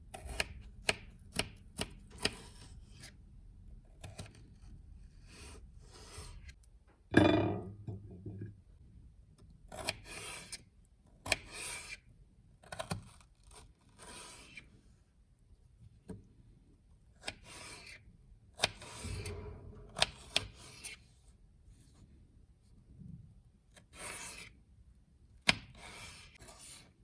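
Kitchen food-preparation handling: irregular short scrapes and rubs with sharp knocks and clicks, one every second or two, the loudest knock about seven seconds in.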